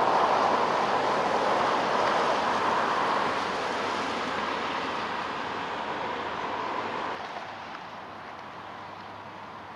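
Road traffic noise: a vehicle passing, loudest at the start and fading away, dropping off about seven seconds in.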